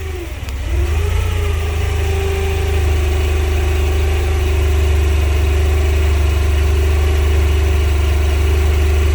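Forklift engine speeding up about a second in and then holding at a steady higher speed as the forks lift a car, with a deep hum under a steady whine.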